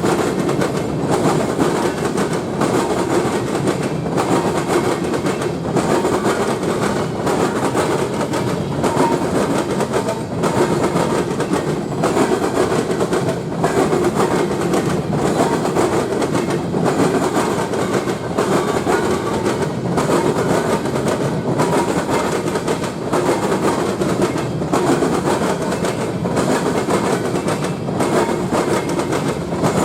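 A train passing close by: a steady rumble of wheels on rails with a regular, repeating beat as the cars roll over the track.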